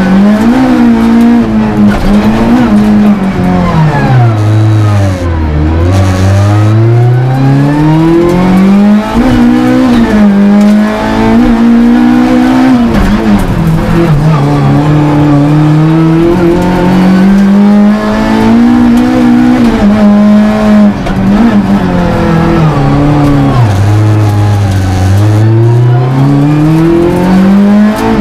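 Rally car engine heard from inside the caged cabin, revving hard up through the gears, its pitch climbing and dropping back at each shift. It falls to a low pitch twice, about five seconds in and again near the end, then climbs again.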